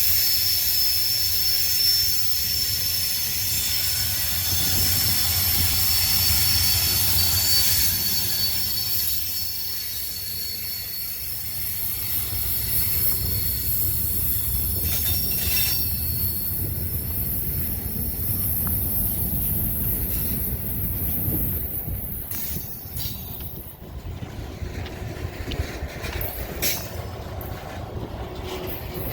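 Heavy BNSF manifest freight train rolling through a sharp curve: steel wheel flanges squeal against the rail in steady high tones over a low rumble. The squeal fades about halfway through, leaving the rumble and scattered clicks of the wheels.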